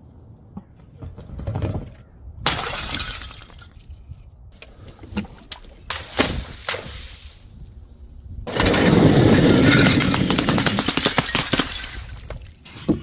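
Glass bottles breaking: a shattering crash about two and a half seconds in, another about six seconds in, then the loudest, a long crash from about eight and a half seconds in, with many small clicks of shards tinkling for several seconds.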